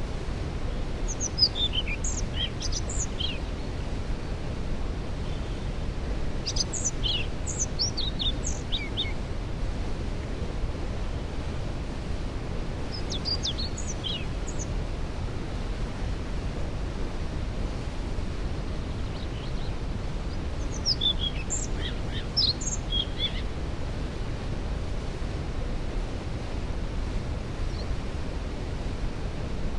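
Steady rushing rumble of a waterfall, with a songbird singing four short phrases of high notes that fall in pitch.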